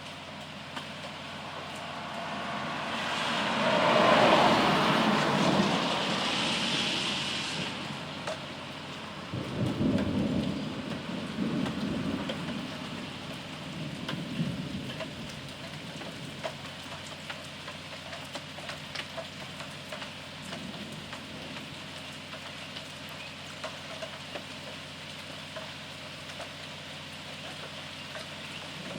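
Steady rain falling, with scattered drips. About three seconds in a loud rushing swell builds and fades over several seconds. Low rumbles of thunder follow around ten seconds in, with a fainter one a few seconds later.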